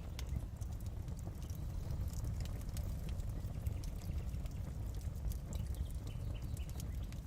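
Fire crackling in a fireplace: scattered small pops and snaps over a steady low rumble.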